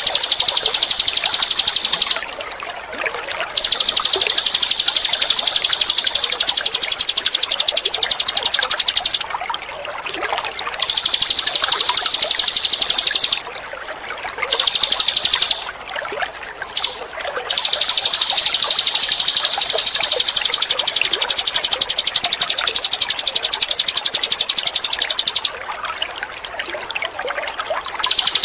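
Ninin eurih bird singing long, rapid high-pitched buzzing trills, each running a few seconds up to about eight, with short breaks between them, over steadily trickling water.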